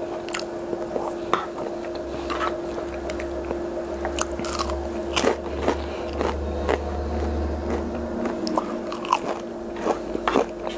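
Close-miked chewing of crunchy breaded fish sticks, with scattered sharp crunches and mouth clicks. A low rumble of the clip-on microphone being handled runs through the middle.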